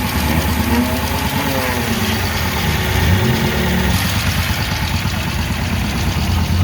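Small engine of a homemade pit vehicle idling steadily, with faint voices in the background early on.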